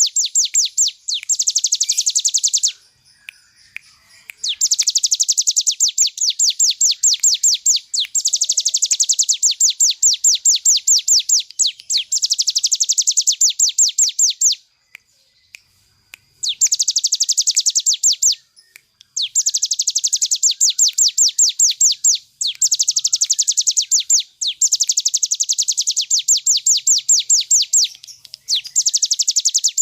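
Ciblek gunung (a prinia) singing its fast, drilling 'ngebren' trill: loud, very rapid runs of high notes in bursts of two to three seconds, broken by short pauses and two longer breaks, one a few seconds in and one about halfway.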